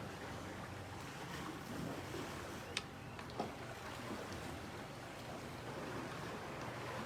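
Steady background hiss, with two sharp clicks about half a second apart near the middle.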